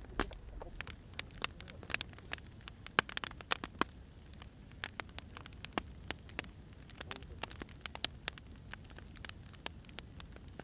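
Firewood burning: irregular sharp crackles and pops over a low steady rumble, with the loudest snap about three seconds in.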